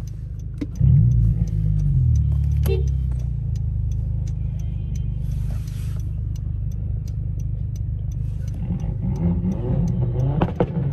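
A car engine heard from inside the cabin, running steadily at a stop with a loud rev surge about a second in and revs rising again near the end. A light ticking about twice a second runs underneath.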